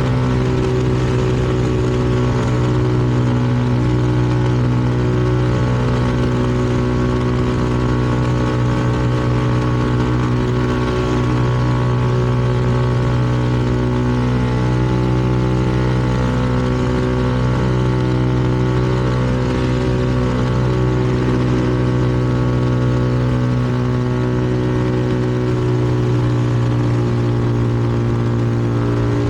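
CFMoto 300NK's single-cylinder engine running at a steady cruise, its note holding fairly even with only small shifts in pitch.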